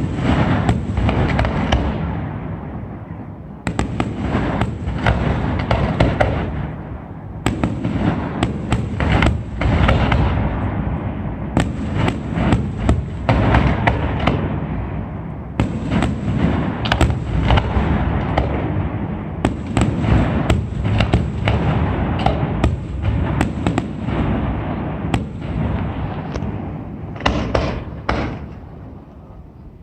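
Fireworks display: rapid strings of sharp cracks over deep rumbling booms, coming in waves that start abruptly about every four seconds and fade away, dropping off near the end.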